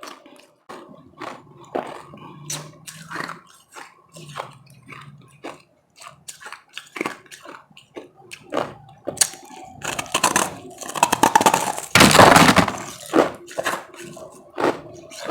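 Close-miked biting and chewing of powdery ice: scattered sharp crunches, building to a dense, loud stretch of crunching about ten seconds in.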